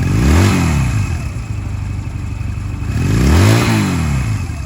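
Honda Rebel 250's air-cooled parallel-twin engine idling and revved twice, the pitch rising and dropping back to idle each time, about half a second in and again about three and a half seconds in.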